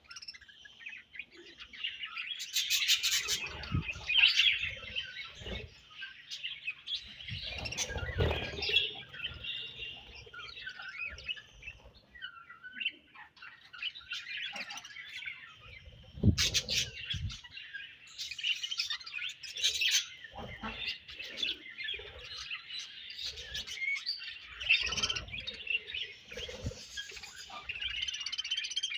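A colony of budgerigars chirping and warbling together in a continuous chatter, with a few short low thumps mixed in.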